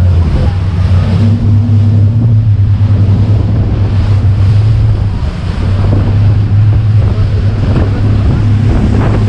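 Tour boat's engine running with a steady low drone, over the noise of water and wind buffeting the microphone.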